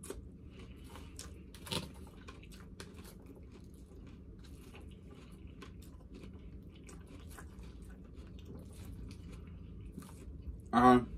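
Close-up chewing and crunching of a salad with shrimp and rice: a run of small wet clicks and crunches, one louder crunch about two seconds in. A brief voiced sound from the eater comes near the end.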